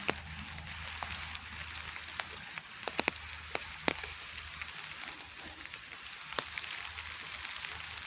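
Rain falling steadily with a hiss, with sharp drips landing close by, clustered about three seconds in and again near four seconds. A low steady hum runs underneath.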